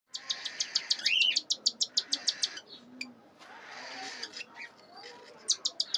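Cockatiels at a feeding: a fast run of short, high chirps, about eight a second, typical of chicks begging to be fed. The run breaks off about halfway through and starts again near the end, with a single rising-and-falling whistle about a second in.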